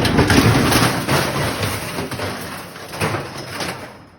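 A steel Champion barbecue smoker sliding off the back of a truck and crashing down: metal scraping and clanking, loudest in the first second, with another clank about three seconds in.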